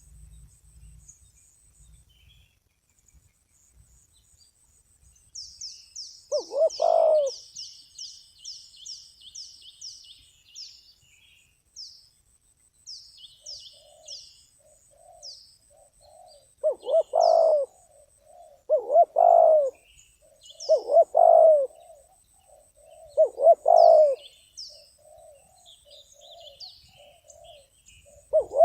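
Spotted dove cooing: one loud coo about seven seconds in, then a run of loud coos every two seconds or so from about seventeen seconds, with softer cooing between them. Small birds chirp high above it, a quick run of chirps between about five and ten seconds.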